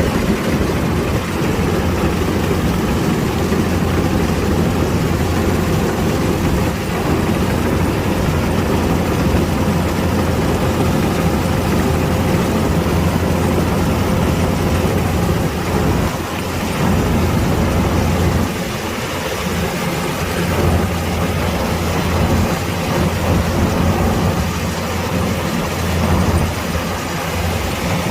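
Kubota DC-105X rice combine harvester's diesel engine running steadily under load, with small dips in level in the second half.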